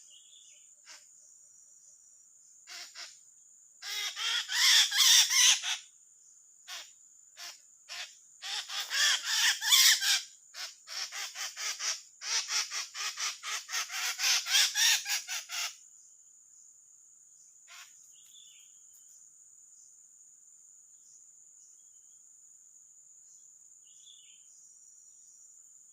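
A bird giving harsh, rapid squawking calls in three loud bursts, starting about four seconds in and stopping around sixteen seconds in, with a few short single calls between. A steady high-pitched insect drone runs underneath.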